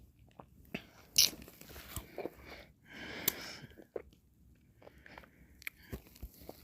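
Close-miked mouth sounds of eating ice cream: irregular wet clicks and smacks, with a longer lick or slurp a little past the middle.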